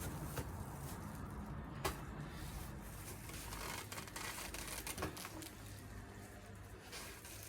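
Crinkling and rustling of a silver air-conditioner outdoor-unit cover being handled and fitted, with a few sharp clicks and knocks, the loudest about two seconds in. A low steady hum runs underneath.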